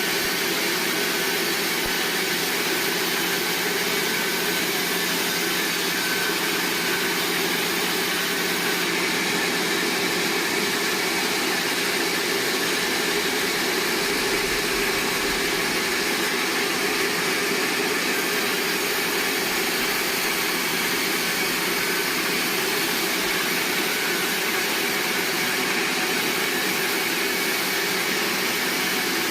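Sawmill machinery running steadily: an even mechanical hum and hiss with a constant low tone, unchanging throughout.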